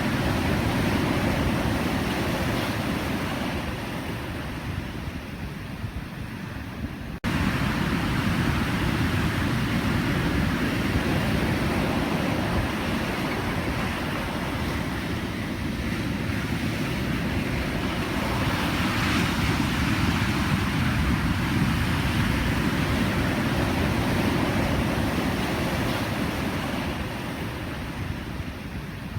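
Ocean surf: waves breaking and washing in as a continuous rushing noise that swells and eases slowly. The level drops off gradually and then jumps back up abruptly about seven seconds in.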